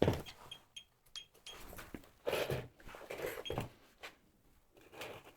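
Scattered light knocks, clicks and shuffles of someone moving about and handling things in a small, bare room.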